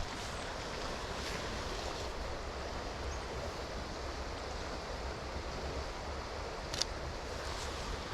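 Steady rushing ambience of rain, flowing river water and wind in the trees, with a single sharp tick about seven seconds in.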